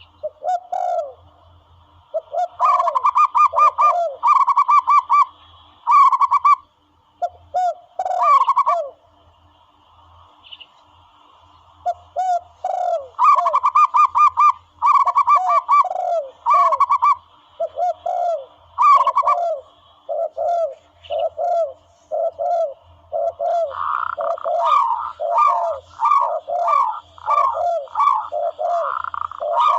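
Doves calling: repeated short coos and rapid trilled cooing in bursts, pausing briefly about a third of the way in, then calling almost without a break.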